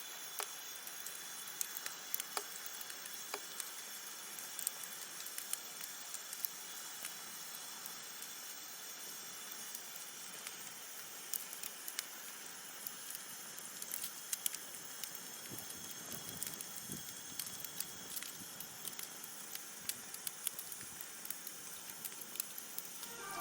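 Wood campfire burning, a steady hiss with frequent sharp crackles and pops.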